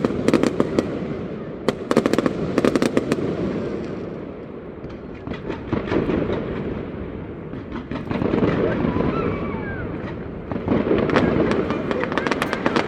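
Fireworks display: clusters of sharp bangs and crackling over a continuous rumble, easing off about five seconds in, then building again.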